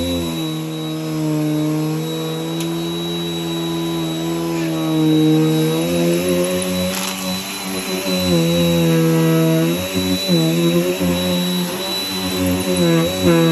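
Vacuum cleaner running steadily with a high whine over its motor hum, the pitch dipping and wavering now and then as the load on the nozzle changes while it is pushed over the floor.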